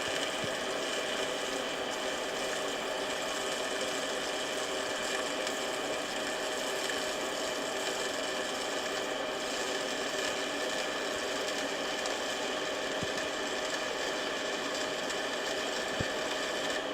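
MIG welding arc from a Lincoln Electric Power Wave S350 feeding .035 wire, laying the root pass on a steel pipe; the arc runs at a steady level throughout.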